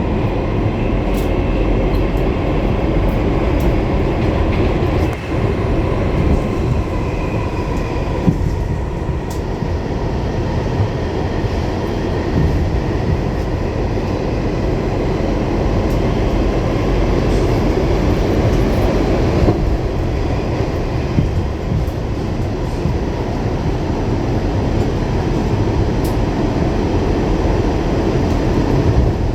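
Pullman Standard R46 subway car running at speed, heard from inside: a continuous loud rumble of wheels on rail, with faint high squeals over the first several seconds.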